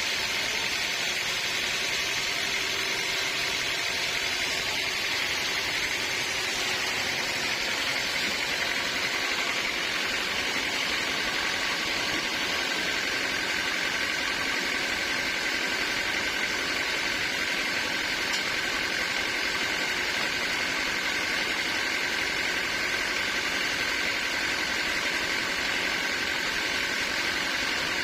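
Sawmill machinery running steadily, with an even mechanical noise; a steady high tone joins it about ten seconds in.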